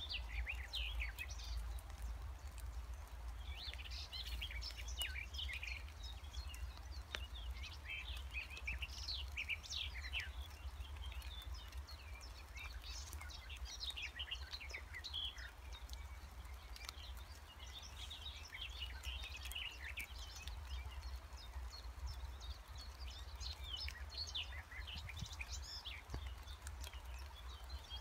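Several songbirds singing and calling, a scatter of short high chirps and quick trills that comes and goes in bursts, over a steady low rumble.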